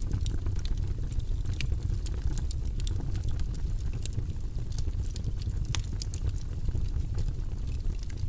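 Wood fire in a fireplace crackling, with irregular sharp pops over a steady low rumble; one pop about six seconds in is louder than the rest.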